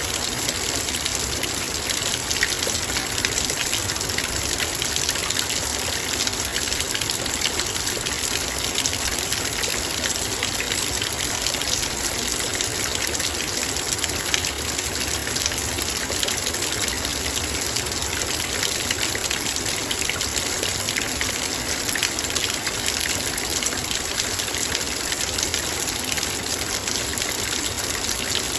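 Heavy rain falling on a metal bowl: a dense, steady patter of countless drops striking the metal.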